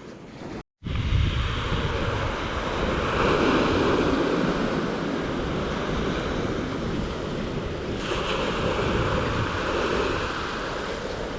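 Ocean waves breaking on a beach, a steady rush of surf that swells twice as waves come in. The sound cuts out briefly under a second in, at an edit.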